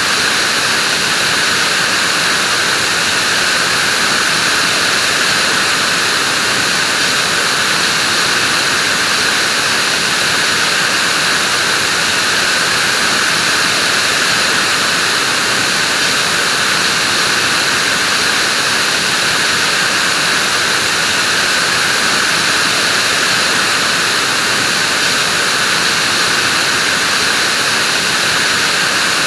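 Vacuum cleaner running steadily: a constant airy rushing hiss with a high whine in it, never changing in pitch or level.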